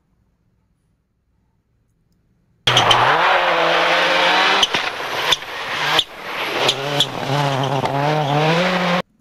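Racing engine sound effect: an engine revving hard, its pitch climbing and dropping sharply several times as it shifts through gears, with a few sharp cracks. It starts almost three seconds in and cuts off suddenly near the end.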